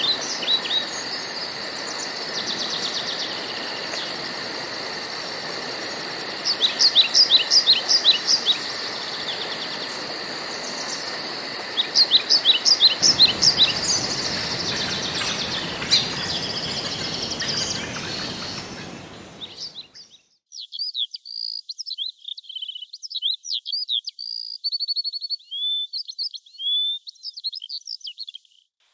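Woodland birds singing, with two quick bursts of rapid repeated notes over a steady high insect-like drone and a background hiss. About two-thirds of the way through, the drone and hiss fade away, leaving clear, varied bird song with short gaps between phrases.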